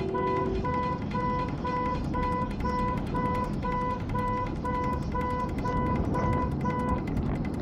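Electronic beeper sounding short, evenly spaced beeps at about two a second over a low rumble, stopping about seven seconds in.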